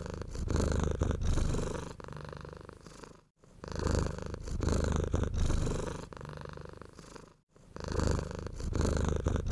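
Domestic cat purring close up, a fast low rumble that swells and fades in cycles of about four seconds, with brief breaks between breaths.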